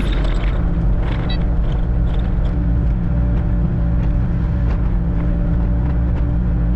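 Diesel engine of a compact Kubota machine running steadily at an even speed.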